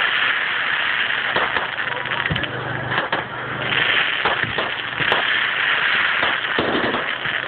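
Fireworks crackling in a dense, continuous rattle, with scattered sharper bangs through it.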